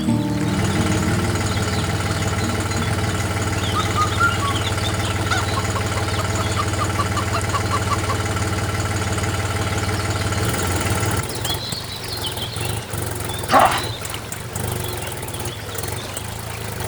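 A motor runs with a steady hum, then stops about eleven seconds in. Birds chirp over it, and a single short call comes near the end.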